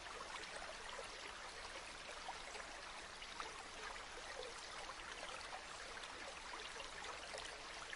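Shallow river or stream flowing steadily over stones, a continuous babble with many small splashes and trickles.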